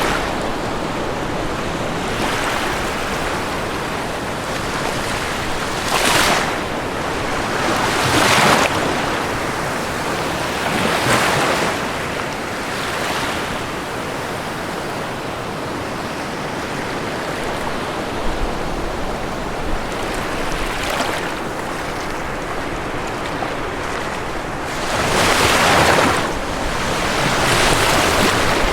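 Ocean surf: a steady wash of waves, with separate swells breaking louder every few seconds, the strongest near the end.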